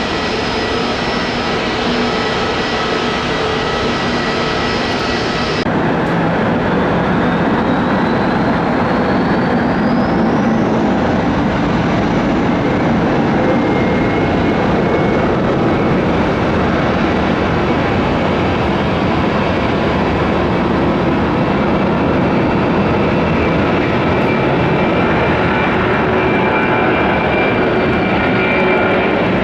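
Jet engine noise from a Boeing KC-135R tanker taking off. About six seconds in, an abrupt change to the turbofans of a Boeing 767-200 freighter, with a rising whine as they spool up to take-off power, followed by a steady loud jet noise.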